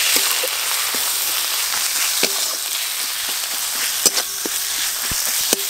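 Onion, ginger-garlic paste, chopped tomato and spice powders sizzling in hot mustard oil in a metal kadai as the masala is fried down, with a metal spatula stirring and scraping the pan. The spatula knocks against the pan about five times.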